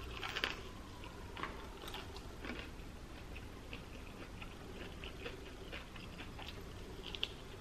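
A person chewing a mouthful of fried chicken, with soft wet mouth clicks. A few louder clicks come in the first few seconds and one more near the end.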